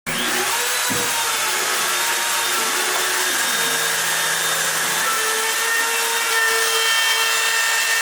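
CNC router spindle cutting hardwood: a steady whine over the noise of the bit cutting, starting abruptly. The whine's pitch steps slightly about five seconds in.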